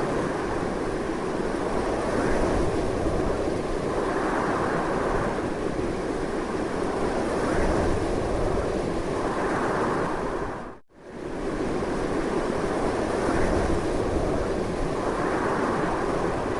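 Strong, continuous wind rushing with slow gusting swells. About eleven seconds in it fades out almost to silence for a moment and fades back in.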